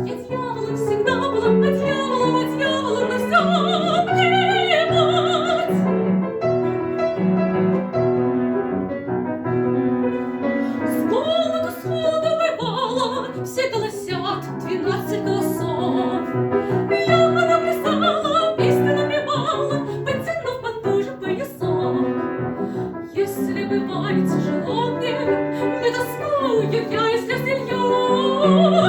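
Soprano singing an operetta song in classical style, her voice wavering in vibrato, with piano accompaniment.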